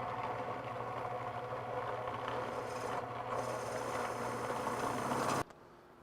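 Drill press running steadily while boring a half-inch hole through a surface-mount keystone box, cut off abruptly about five and a half seconds in.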